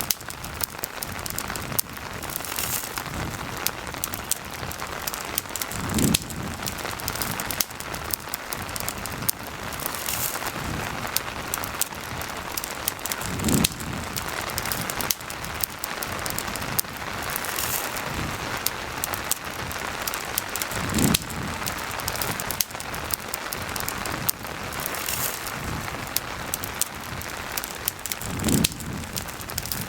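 Steady rain pattering, mixed with a campfire crackling with small snaps. A soft low thump recurs about every seven and a half seconds.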